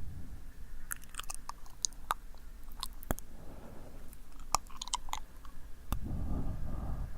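Close-miked ASMR mouth sounds: sticky, wet clicks and smacks of tongue and lips scattered irregularly, with a breathy rush of air into the microphone from about six seconds in.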